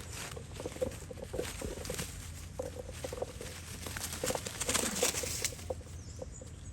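Monkeys giving short, repeated squeaks, with rustling and scuffling that grows denser around four to five seconds in.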